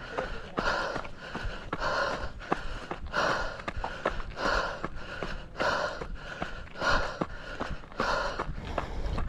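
A runner's heavy, rhythmic open-mouthed breathing, panting in and out about every half second from hard uphill exertion, with footsteps crunching on the dirt trail in between.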